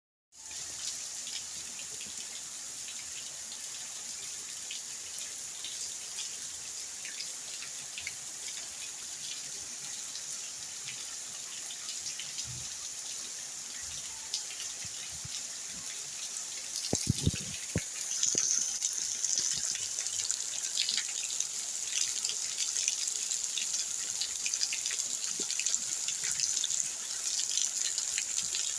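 Rain falling: a steady hiss with a patter of drops, growing louder about seventeen seconds in, when a few dull knocks are also heard.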